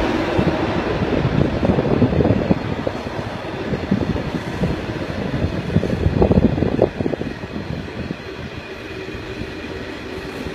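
Loaded iron ore wagons of a heavy freight train rolling past, a dense rumbling clatter of steel wheels on the rails. The clatter is loudest through the first seven seconds, then eases to a quieter, steadier rolling noise.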